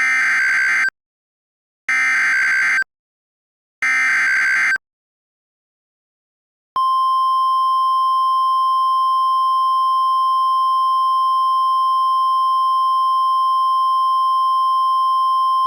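Emergency alert broadcast signal for a tornado warning: three short bursts of screechy SAME data tones, each just under a second long with about a second's gap, then, about seven seconds in, the long steady single-pitch NOAA Weather Radio warning alarm tone, which holds for about ten seconds.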